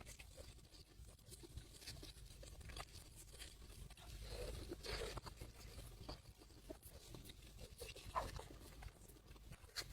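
Faint eating sounds close to the microphone: scattered crunches, small clicks and mouth noises of food being chewed.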